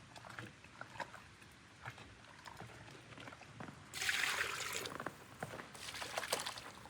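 Liquid pouring in two short spells, about four and six seconds in, with light clicks and knocks between them.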